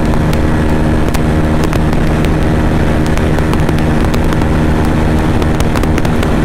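Bajaj Pulsar N250's single-cylinder engine running steadily near redline in fifth gear, holding about 145 km/h close to its top speed, under heavy wind rush. Frequent faint sharp clicks run through it.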